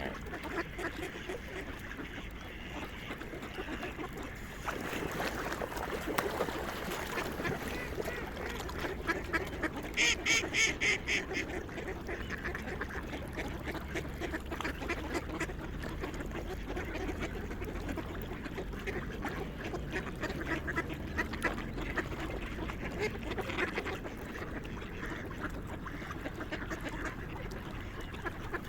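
A flock of swans and other waterfowl calling continuously in a dense chatter of quacking and honking calls. About ten seconds in comes a short burst of rapid, sharper calls.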